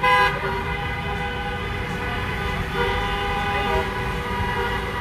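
Several vehicle horns honking together, with a loud short honk at the start and then horn tones held steadily over the low rumble of passing traffic.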